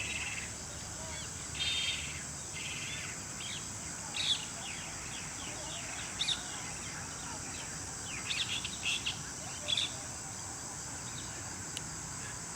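Wild birds chirping in short calls and brief trills at irregular intervals, over a steady high-pitched hiss.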